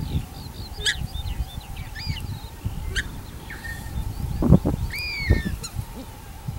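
Wild birds calling: a scatter of short chirps and several arching, rising-then-falling calls, with a louder, lower call about four and a half seconds in.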